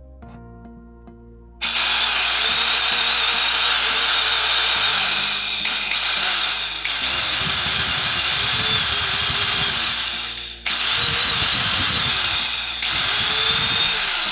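Freshly restored Black & Decker electric drill switched on and running at full speed, its motor whine wavering slightly. It stops briefly about ten and a half seconds in, then runs again until near the end.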